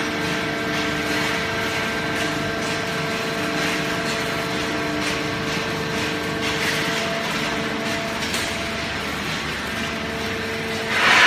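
Fully automatic plastic bottle baler running, a steady machine hum made of several tones over a rushing noise, with a louder surge of noise at the very end.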